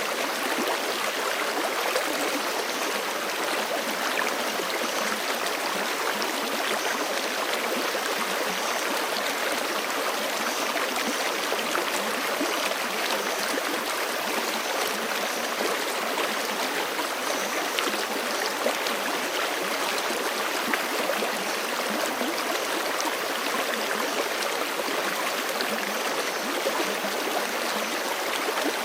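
Forest creek running steadily, a continuous even rush of flowing water.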